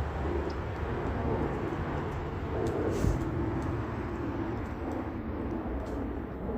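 Steady rumble of road traffic, with a few faint, scattered clicks.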